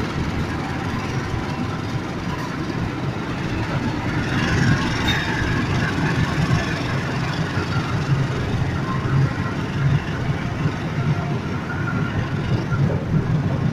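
Passenger train coaches rolling past on the rails: a steady, loud rumble of wheels and bogies. A brief brighter, higher sound comes about five seconds in.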